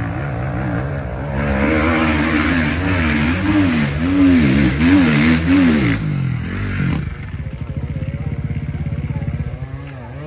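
Motocross motorcycle engine revving up and down in repeated throttle blips, then dropping back to a lower, steady idle about seven seconds in.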